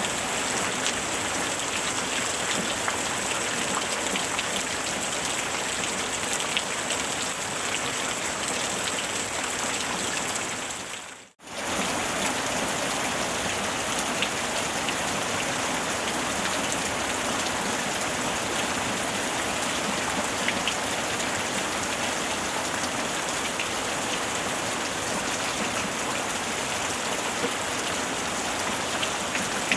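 Steady rain: a dense, even patter of drops falling on a surface. About eleven seconds in it fades out to almost nothing for a moment, then comes straight back at full level.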